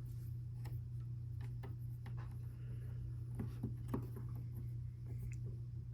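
Light, irregular clicks and taps of plastic LEGO Technic pieces being handled and pressed together, about eight in all, over a steady low hum.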